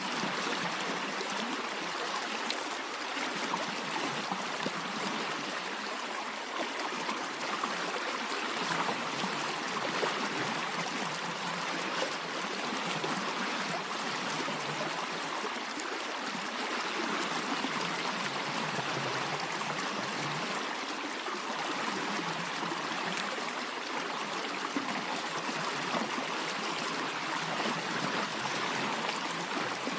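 A stream of water flowing steadily, an even rushing hiss with no music over it.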